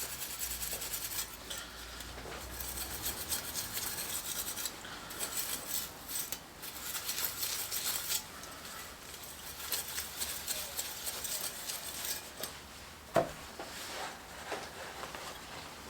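Stainless steel scrubbing pad scrubbing a circular saw blade wet with cleaner: scratchy rubbing strokes in stretches with short pauses, and one sharp knock late on.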